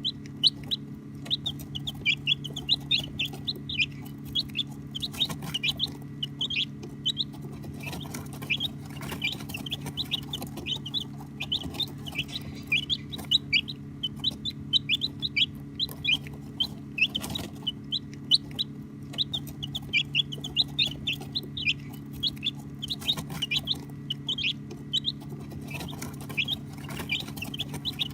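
A brood of baby chicks peeping without pause, many short high-pitched chirps overlapping, over a steady low hum.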